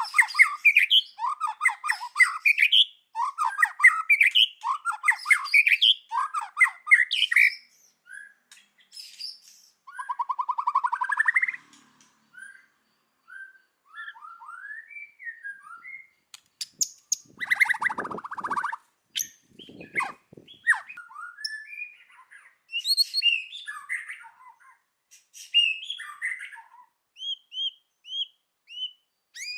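White-rumped shama singing a varied song: a fast run of rising chattering notes for the first several seconds, then a buzzy rising rattle, then scattered whistled phrases. A harsh, noisy burst comes about two-thirds of the way through.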